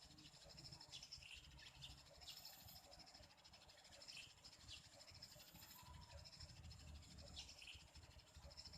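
Faint, short, high chirps of small birds, scattered once or twice a second, over a low rumble.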